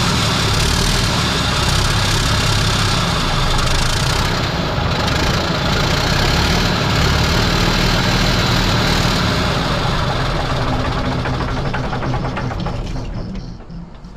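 Mack R-model truck's diesel engine running rough on starting ether alone, its injection system not supplying fuel. It fades and dies away over the last couple of seconds.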